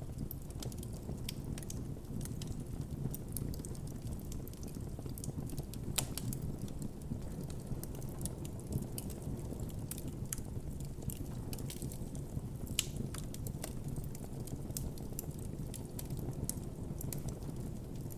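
Wood campfire burning, crackling with many small irregular snaps and a couple of louder pops, over a steady low rush.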